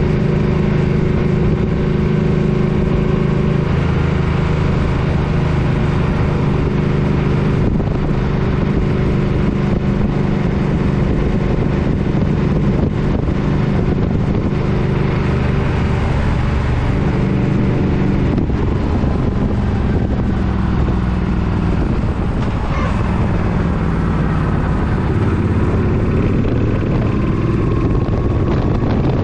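Suzuki Boulevard M50's V-twin engine running while riding, its note changing pitch several times as it speeds up and slows down, with steady wind noise on the microphone.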